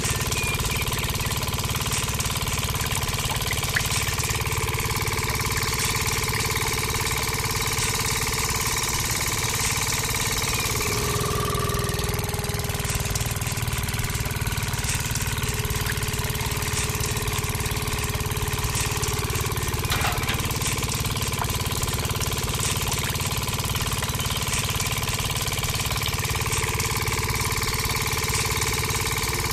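Miniature model engine running steadily, driving a toy roller juice press by its belt.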